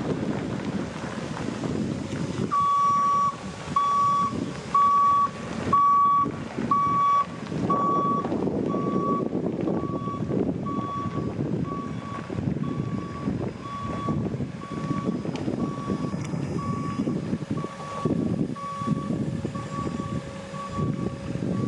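Truck backup alarm beeping in a steady series of short, even beeps, a little more than one a second, starting a couple of seconds in over steady low noise.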